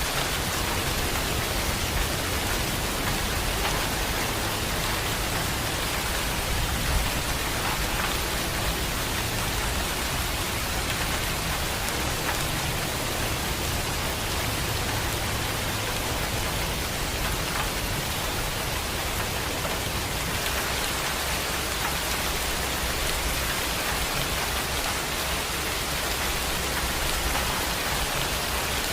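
Heavy rain falling steadily, an even unbroken hiss with a low rumble underneath.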